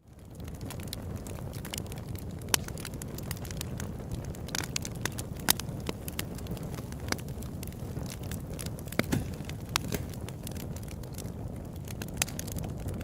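Open campfire crackling: irregular sharp pops and snaps over a steady low rush of burning wood. The sound fades in from silence at the very start.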